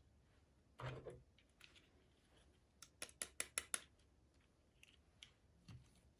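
Small items being handled at close range: a soft rustle about a second in, then a quick run of about six sharp, light clicks in a second, and a few faint ticks.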